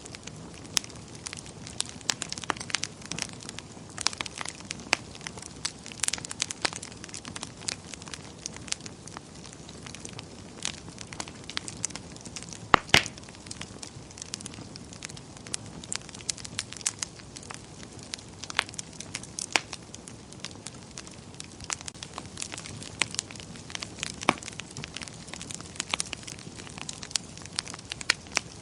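Wood fire burning in a fireplace: a soft steady hiss with frequent sharp crackles and pops, the loudest snap about thirteen seconds in.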